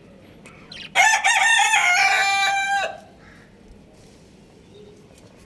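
A rooster crowing once: a single loud call of about two seconds, starting about a second in, held on a steady pitch and then cutting off.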